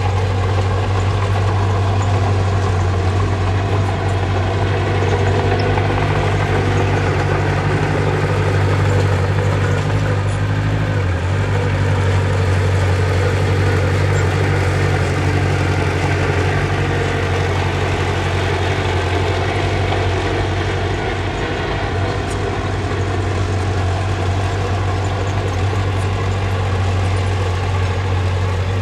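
Diesel engine of a small bulldozer or dump truck running steadily at a constant speed, with a brief waver about a third of the way in.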